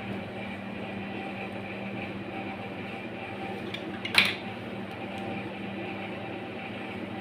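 A steady mechanical hum with a low drone, broken once a little after the middle by a single sharp clink.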